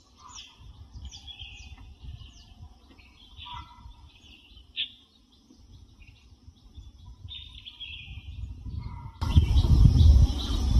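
Small birds chirping and calling repeatedly outdoors over a low rumble. About nine seconds in, a loud steady noise suddenly cuts in over the birdsong.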